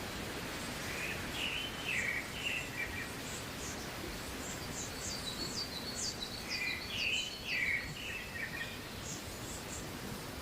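Birds calling: two bouts of short, quick phrases of high stepping notes, over a steady background hiss of the forest.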